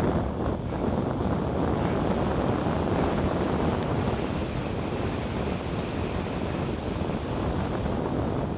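Wind buffeting the microphone of a moving bicycle: a steady, deep rushing noise.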